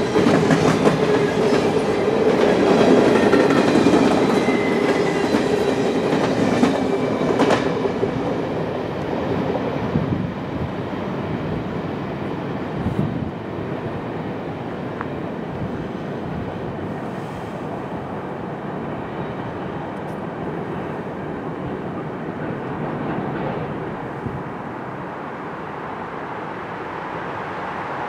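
Canadian National freight train cars rolling by, steel wheels clicking over rail joints, with a thin high wheel squeal in the first several seconds. The sound drops to a quieter, steadier rumble from about ten seconds in.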